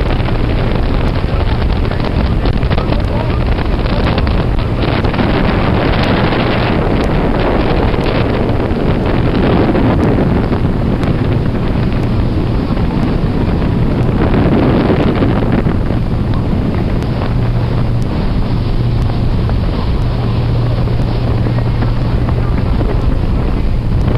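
Wind buffeting the microphone aboard a moving tour boat, over the steady drone of the boat's engine.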